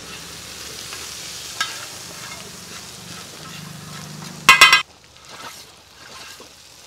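Egg and chutney mixture sizzling in a hot pan while a spatula stirs and scrapes through it, crushing the eggs. About four and a half seconds in there is a short, loud clatter of the spatula against the pan.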